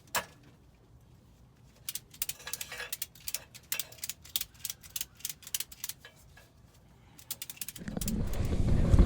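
Rapid, irregular mechanical clicking and rattling for several seconds, then a loud low rumble that starts near the end.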